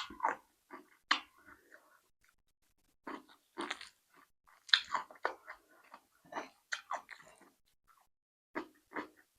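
A person eating close to the microphone: irregular bites and chewing with crunchy, crackly mouth sounds.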